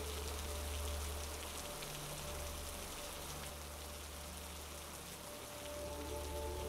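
Steady patter of rain, a fine even hiss of drops, over a low steady hum; a few soft held notes come in near the end.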